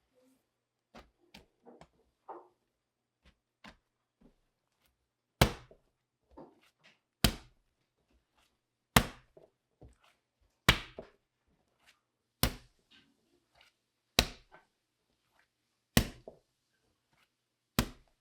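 A run of sharp chopping knocks, eight loud strikes evenly spaced about one every 1.8 seconds, with a few lighter taps and knocks before them.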